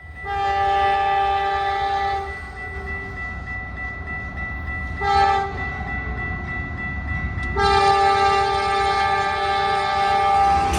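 Multi-chime diesel locomotive air horn sounding a grade-crossing signal: a long blast, a short blast about five seconds in, then another long blast from about seven and a half seconds, over the low rumble of the approaching train.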